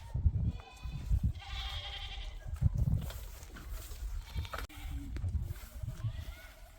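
Livestock bleating: a short call, then a longer one with many overtones about a second and a half in. Bursts of low rumble come and go throughout.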